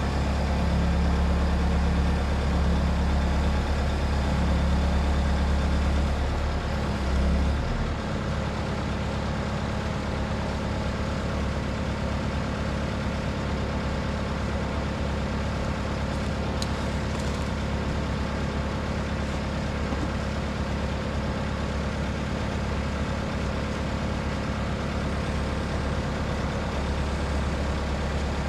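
Skid steer engine running steadily with a deep, even hum. Its note shifts briefly about seven seconds in, then settles again.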